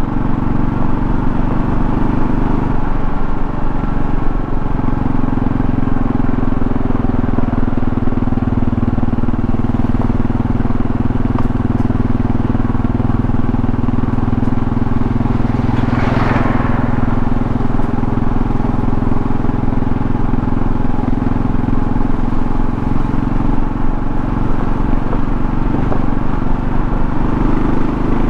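The single-cylinder engine of a 2024 Kawasaki KLR650 running steadily under way, over road and wind noise. The engine note changes about three seconds in and rises near the end. A brief rushing noise comes about halfway through.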